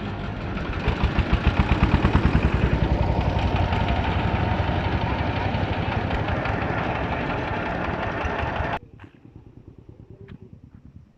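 Single-cylinder diesel engine of a kutta gari, a Bangladeshi engine-driven steering trolley, running with a rapid, even thumping. About nine seconds in it drops suddenly to a much quieter thumping.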